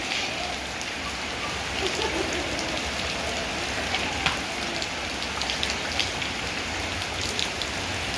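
Steady rain falling on a wet lane and puddles, an even hiss with a few sharper taps of drops or splashes.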